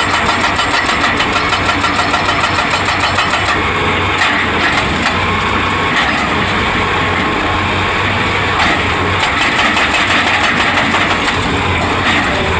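Excavator's hydraulic breaker hammering in a fast, even rhythm, stopping about three and a half seconds in; the excavator's engine keeps running steadily after that.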